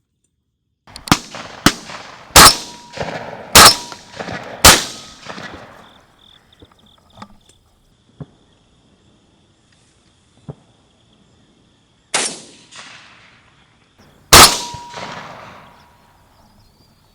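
Shotgun blasts from a group of hunters shooting at doves: a quick string of five shots in the first five seconds, the first two a little fainter, each trailing off in echo, then two more shots about ten seconds later.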